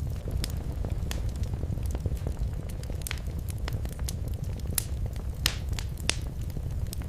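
Fire in a fireplace crackling, with irregular sharp pops and snaps, a few louder than the rest, over a steady low rumble.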